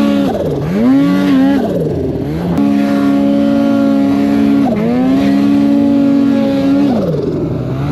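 Snowmobile engine revving up and down under throttle several times, holding high revs for about two seconds at a stretch before dropping back.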